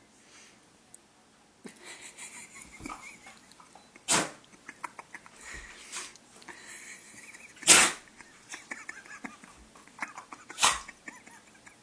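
A pit bull sneezing three times, a few seconds apart, the middle sneeze the loudest. The sneezes are set off by a cat pawing at its face.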